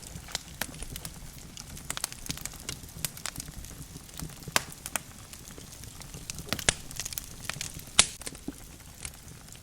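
Logs burning in a fireplace, crackling with irregular pops and snaps over the low rush of the flames. The sharpest pop comes about eight seconds in.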